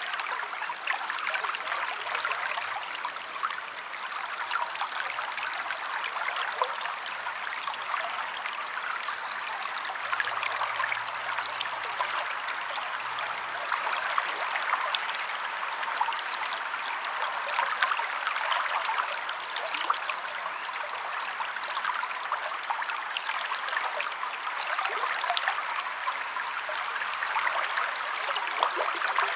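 A river flowing steadily, its water splashing and trickling in a dense, even rush.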